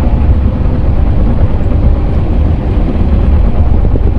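Diesel engine of an earth-moving machine running steadily under load with a low rumble, the machine jolting over rough ground.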